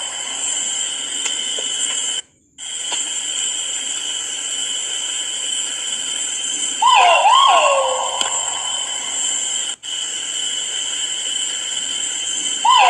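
Great argus pheasant (kuau) calling: a loud two-part swooping call, a short dipping note followed by a longer downward-sliding one, about 7 s in and again starting near the end. A steady high-pitched buzz runs underneath, and the audio cuts out briefly twice.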